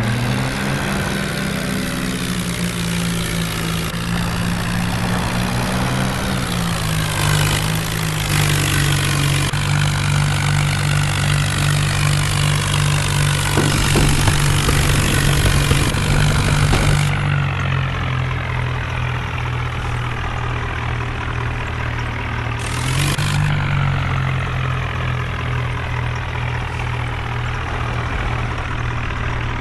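Swaraj tractor's diesel engine running steadily. Its speed picks up about seven seconds in and dips briefly about twenty-three seconds in.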